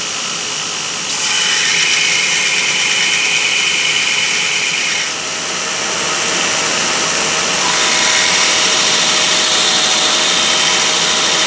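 Electric grinder running, with a small steel hammerhead pressed against it: the grinding gets louder and higher about a second in, lets up briefly near the middle, then resumes as the thicker end of the head is ground down.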